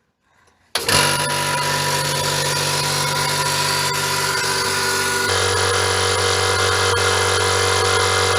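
Electric air compressor switched on: its motor and pump start abruptly about a second in and run steadily, filling the tank up to its set cut-out pressure. About five seconds in, the note of the hum drops lower.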